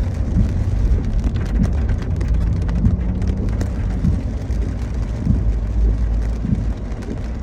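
Car driving in rain, heard from inside the cabin: a steady low rumble of engine and road, with scattered ticks of rain hitting the car.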